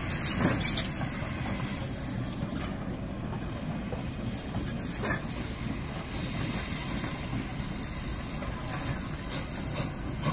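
Passenger train rolling past, with a class 08 diesel shunter's engine running at its near end and the wheels clattering over the rails; a few sharp clatters about half a second in, then the sound eases a little as the train draws away.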